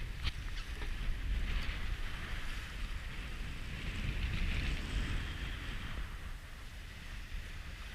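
Strong wind buffeting the microphone as a steady low rumble, over a rushing hiss of water along a sailboat's hull and breaking seas that swells and fades. A faint click comes right at the start.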